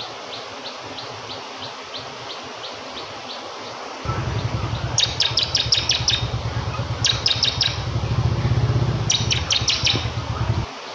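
Bar-winged prinia (ciblek kristal) singing over steady rushing water. First comes a run of short, evenly spaced chirps, then three quick bursts of rapid high notes about two seconds apart. A low pulsing hum comes in about four seconds in and cuts off suddenly just before the end.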